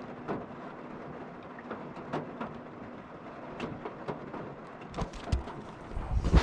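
Steady rain on a van's roof, with single drops ticking irregularly; a low rumble and a loud thump come near the end.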